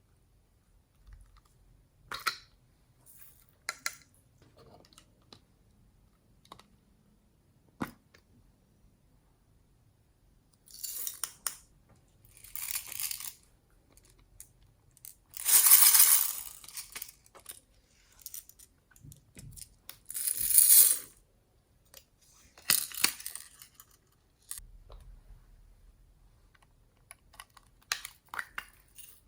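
Slime being handled and mixed by hand: scattered sharp clicks and several separate bursts of crackling, the loudest about halfway through.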